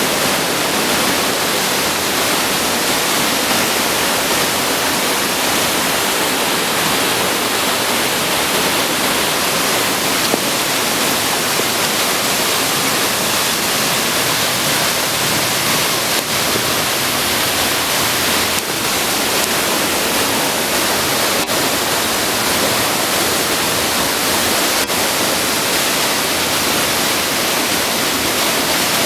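Narukami Falls waterfall rushing: a loud, steady, even roar of falling water.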